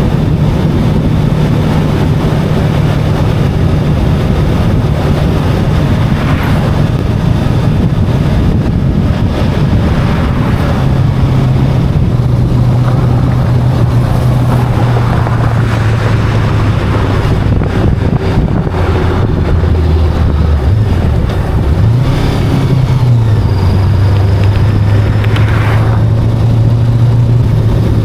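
Voge 525DSX motorcycle's parallel-twin engine running at steady cruising revs while riding, with wind rushing over the microphone. About twenty seconds in, the engine note drops, then climbs back and settles.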